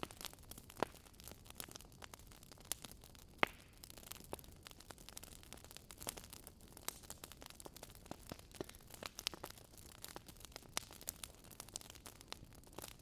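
Wood campfire crackling with irregular sharp pops and snaps, two louder pops about a second in and about three and a half seconds in, over a faint steady hiss.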